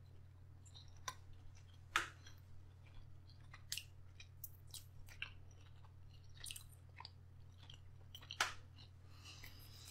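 Close-up chewing of smoked crocodile tail meat: soft wet mouth sounds and lip smacks, with a few sharper smacks about 2 seconds in and near the end, over a steady low hum.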